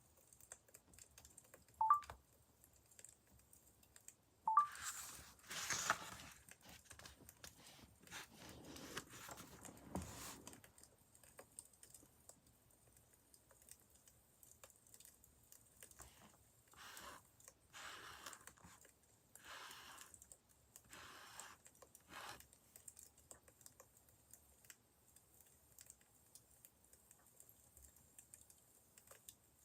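Crackling wood fire: scattered small ticks and pops, with two louder sharp pops early on and several brief soft swishes later.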